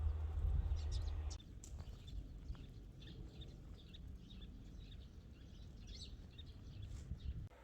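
Small birds chirping, a rapid run of short high calls, after a low rumble that stops abruptly about a second and a half in.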